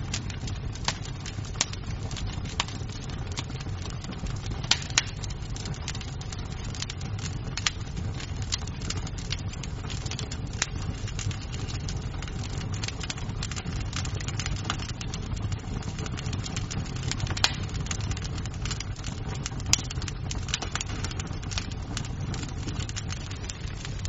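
Wood fire in a fireplace crackling, with a steady low rumble of burning and frequent sharp snaps and pops of the wood, a few of them louder.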